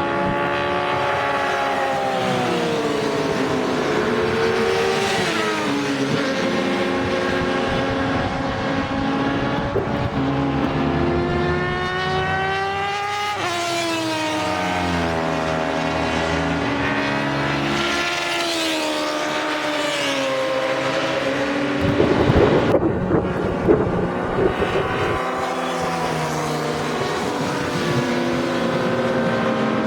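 Inline-four sportbike engine at racing pace. Its pitch climbs repeatedly through the gears and drops back in steps under braking and downshifts. About two-thirds of the way through, a louder rough rush of noise briefly covers it.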